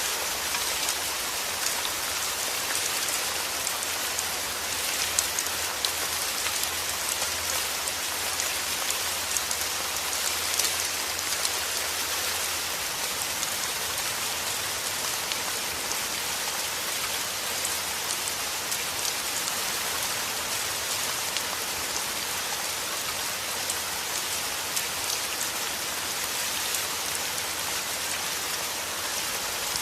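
Heavy rain falling steadily: an even hiss dense with the patter of countless drops. A faint low rumble underlies it for the first dozen seconds, then fades.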